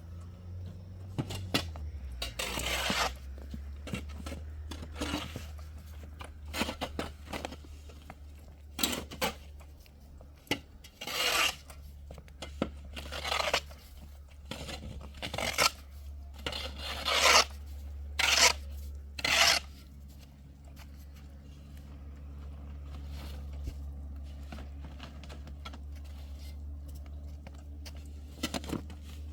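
A series of short rasping, scraping strokes, about a dozen, mostly in the first two-thirds, over a steady low hum.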